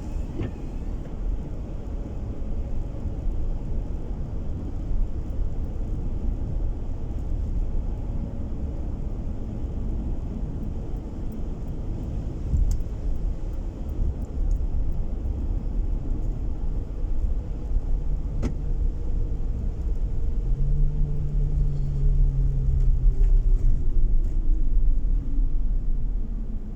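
Car driving along a road, heard from inside: a steady low rumble of tyres and engine. Near the end a faint whine slowly falls in pitch as the rumble grows a little louder.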